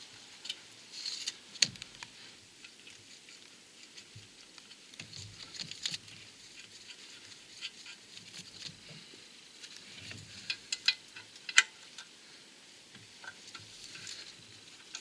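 Scattered light metallic clicks and short scrapes at irregular intervals, from hand tools and bolts being worked as the clutch pressure plate bolts are screwed in by hand.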